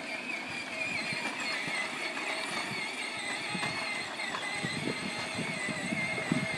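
Battery-powered ride-on toy tractor driving: its electric motor and gearbox give a steady high whine that wavers slightly in pitch. A rough rumble from the wheels rolling over the ground grows louder in the second half.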